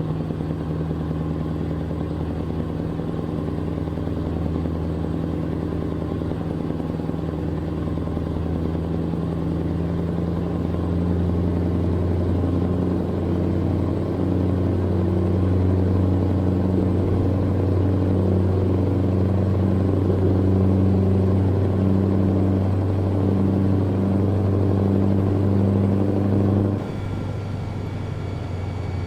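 Truck's diesel engine running steadily, heard inside the cab while driving. It grows louder partway through, then drops suddenly in loudness near the end.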